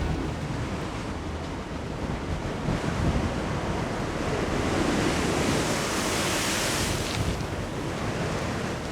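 Storm waves surging against a sea wall: a rushing hiss swells over a few seconds and drops off suddenly about seven seconds in. Gusty wind rumbles on the microphone throughout.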